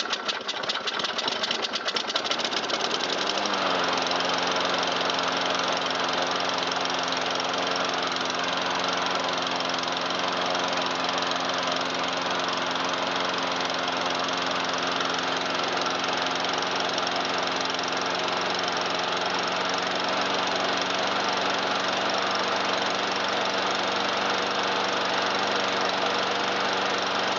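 Briggs & Stratton single-cylinder lawn mower engine just started, firing unevenly for the first few seconds. About three and a half seconds in its pitch rises a little and it settles into a steady full-throttle run. It starts and runs well now that its clogged carburetor has been cleaned.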